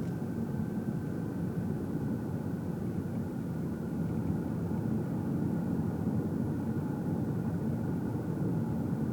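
Car driving heard from inside the cabin: steady engine and tyre rumble, with a faint steady whine above it.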